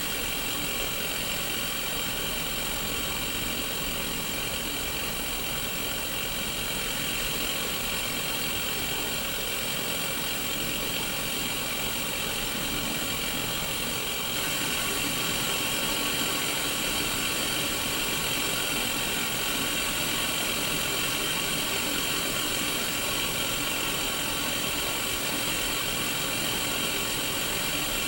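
Static hiss from a Sony Mega Watchman black-and-white mini CRT TV's speaker, tuned to no station. The hiss is steady and gets slightly louder about halfway through.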